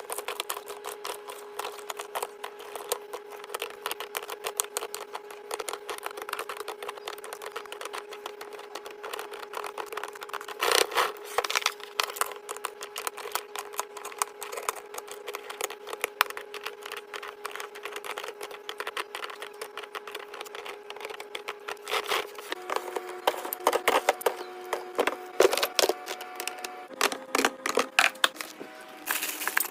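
Many small clicks, taps and clatters as containers, bottles and packages are handled and set down while a fridge is restocked. Louder clusters come about a third of the way in and over the last quarter. A steady hum runs underneath and changes pitch twice.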